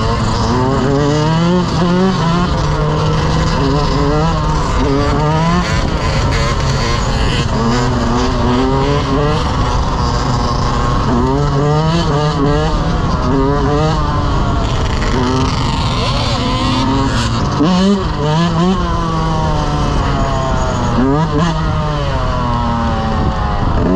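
Several dirt bike engines revving up and down over and over, the pitch climbing and dropping with each throttle blip and shift, often overlapping.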